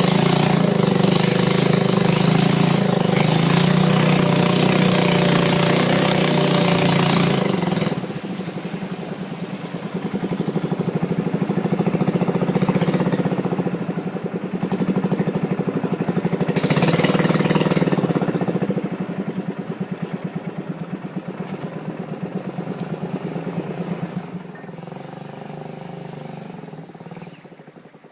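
Small boat's engine running steadily on the river, with a constant pitched hum and a rush of noise over it for the first several seconds; the level swells and dips, then falls away over the last few seconds.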